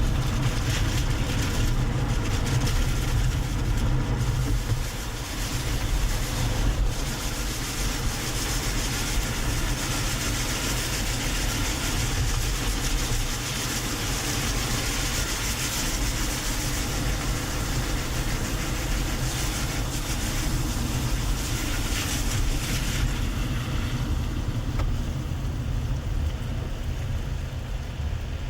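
Car driving, heard from inside the cabin: steady low road and engine rumble with tyre noise. A higher hiss grows stronger through the middle stretch, then drops back.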